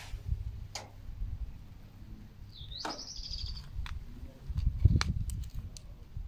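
Songbirds calling, with one clear rising, warbled call about three seconds in and a few short sharp chirps or clicks. Under them is an uneven low rumble, loudest about five seconds in.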